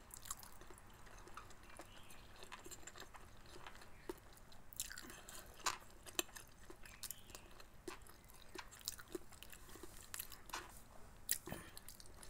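A person chewing siomai (steamed pork dumplings) with her mouth closed: faint, scattered wet mouth clicks and smacks.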